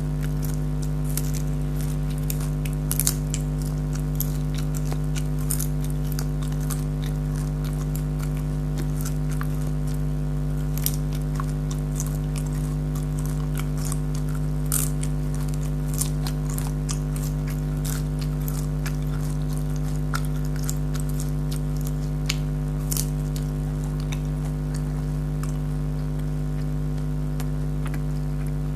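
Close-miked chewing of crisp, syrupy jalebi: scattered short crackles and clicks from the mouth. A steady low hum sits underneath throughout.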